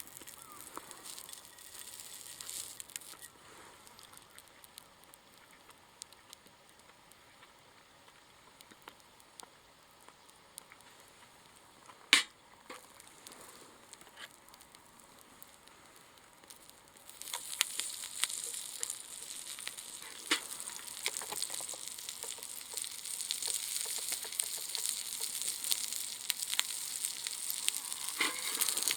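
Food sizzling in a pan over a wood fire, faint at first, then louder and steadier from a little past halfway and rising toward the end. A single sharp click sounds about twelve seconds in.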